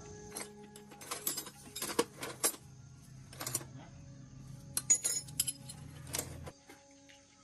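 Metal tools and parts clinking and clattering in a series of sharp clinks, over a low steady hum that cuts off near the end.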